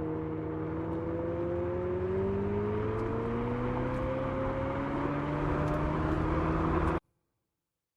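Abarth 500e's artificial petrol-engine sound from its sound generator, a steady engine note that climbs slowly in pitch as the car gathers speed, cutting off suddenly near the end.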